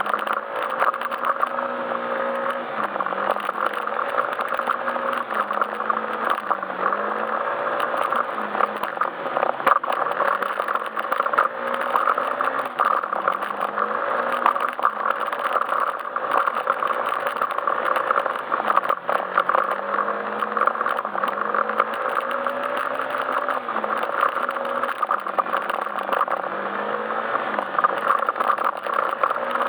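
Yamaha Majesty S scooter's single-cylinder engine running on the move, its revs rising and falling over and over, under steady road and wind noise with many small knocks and rattles.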